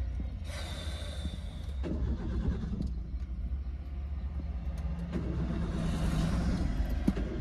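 Car engine running, a low steady rumble heard from inside the cabin.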